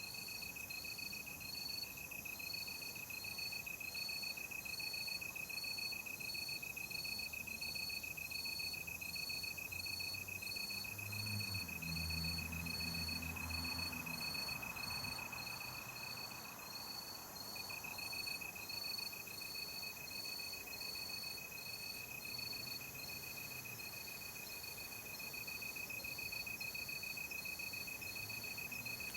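Night chorus of crickets: one steady high trill, with a second cricket chirping in short, even pulses about one and a half times a second.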